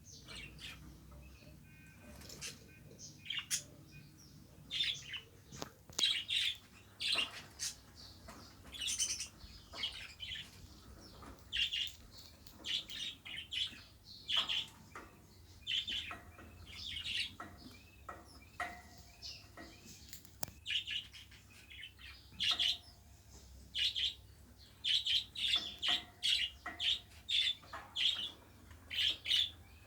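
Pet budgerigars chirping: short high calls one after another, coming thicker in the last few seconds.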